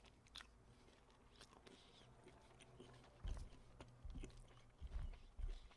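Faint chewing with small wet mouth clicks; from about halfway there are several soft low thuds.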